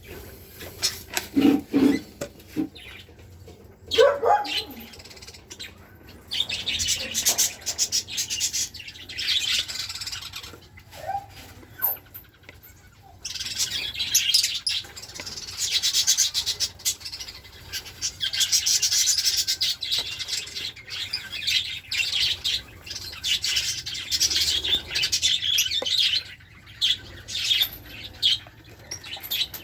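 Many small cage birds chirping and chattering at once; the high, busy chatter thickens from about six seconds in and keeps going in waves.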